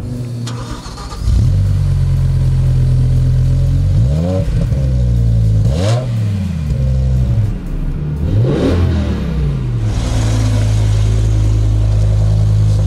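BMW M6's 5.0-litre naturally aspirated V10 starting about a second in and settling into a loud, steady idle. It is then revved three times, each rev climbing and falling back, before it settles to a steady idle again.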